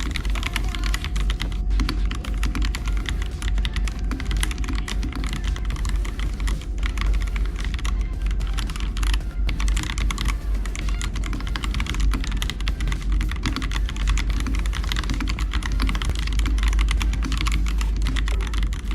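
Typing on a YUNZII X75 Pro mechanical keyboard: a fast, continuous run of key clacks with no pauses.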